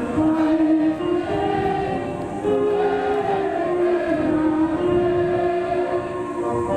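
A school song sung by a choir with instrumental accompaniment, a slow melody of held notes.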